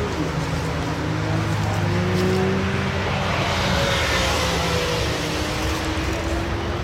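Car engines running, a steady low hum with tones slowly drifting in pitch, swelling a little two to four seconds in.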